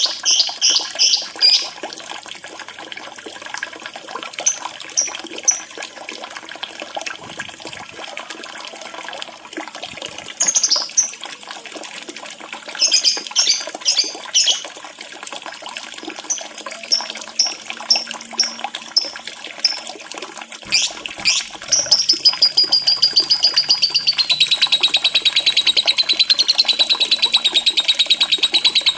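Lovebird calling over steadily running, trickling water: short groups of sharp, high chirps, then about 22 seconds in a long, very fast, even trill that keeps going.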